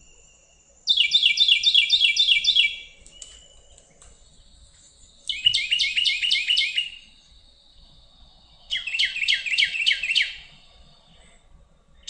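Carolina wren singing its loud, rolling tea-kettle song: three bouts of quickly repeated phrases, each about two seconds long, a few seconds apart.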